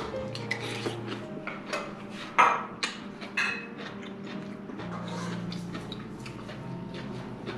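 A person chewing a mouthful of food close to the microphone, with a run of small clicks and crunches over the first few seconds, the loudest a little past two seconds in, then quieter chewing.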